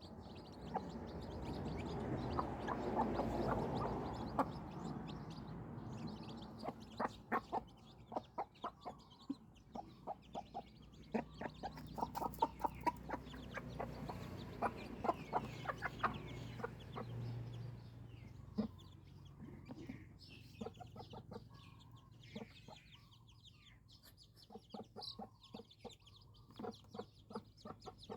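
Chickens clucking, with many sharp taps and clicks throughout and a rustling swell in the first few seconds.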